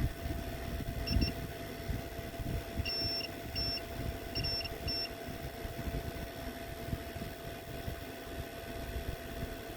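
A run of short, high-pitched electronic beeps at irregular intervals, from about a second in to about five seconds in, some single and some in quick pairs. They sit over a steady low rumbling background.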